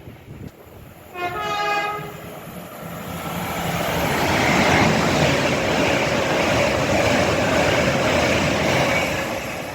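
Avanti West Coast Class 807 electric train giving one short horn blast about a second in, then passing at speed, its rolling noise building over a couple of seconds and holding steady.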